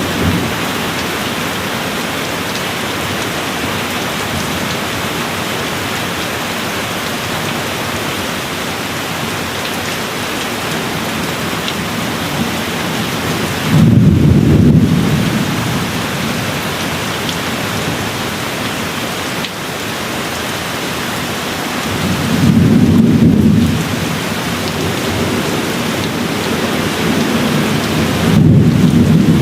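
Steady rain falling, with low thunder rumbles three times, each lasting a second or two: about halfway through, about three-quarters through, and again at the very end.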